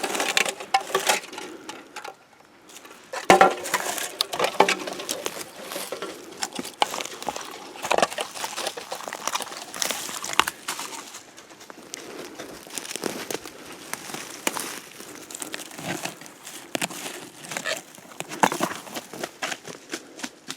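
Footsteps pushing through dry brush and dead branches, with twigs cracking and leaves crunching underfoot at an uneven pace.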